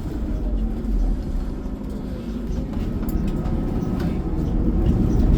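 Inside a moving transit bus: steady engine and road rumble, getting louder toward the end.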